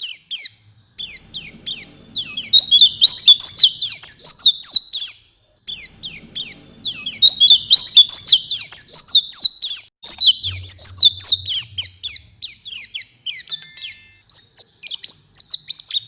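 A white-eye (pleci) sings long, fast runs of high chirping notes. The runs come in four bursts with short pauses between them.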